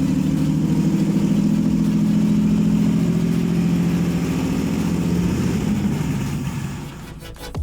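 Used Toyota 3GR-FE 3.0 L V6 engine idling steadily on a test stand, then winding down and falling quiet about six seconds in.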